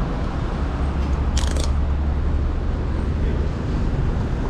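Royal Enfield Interceptor 650's parallel-twin engine running at a steady low pitch through a Chris Michael aftermarket exhaust. A brief high-pitched rattle cuts in about a second and a half in.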